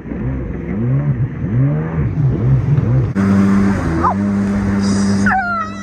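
Jet ski engine running, its pitch rising and falling as the throttle changes. About three seconds in it switches to a steady, higher-sounding drone. A voice calls out briefly near the end.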